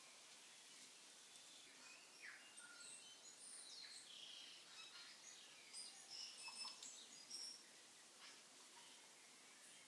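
Faint bird chirping: scattered short, high chirps over a quiet hiss, busiest through the middle, with a few faint clicks.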